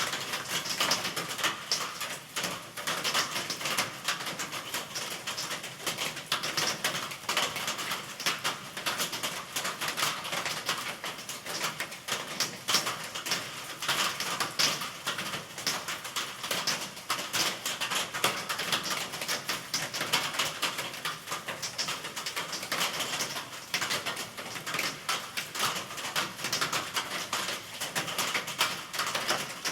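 Steady rain: a dense, even patter of many close drops clicking over a constant hiss.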